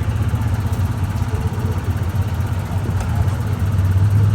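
Vehicle engine running steadily with a low drone, growing a little louder near the end.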